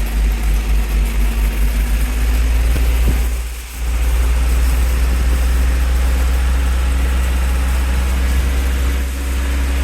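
Water truck's engine running with a deep steady rumble, its loudness pulsing quickly for the first couple of seconds and dipping briefly about three and a half seconds in.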